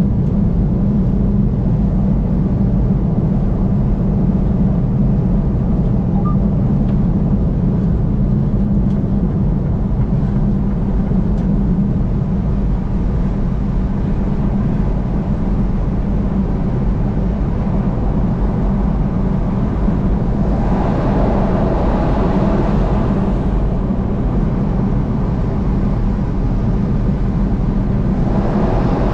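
A car travelling at highway speed: a steady low rumble of tyre, road and engine noise. A louder rushing swell comes about twenty seconds in and again near the end.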